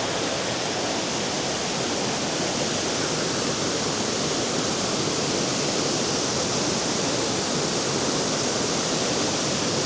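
Waterfall rushing steadily, heard up close from above the falls.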